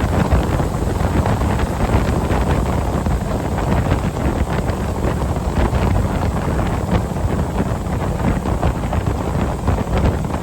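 Steady wind noise buffeting the microphone on a moving ski boat, with the boat's engine and rushing water underneath.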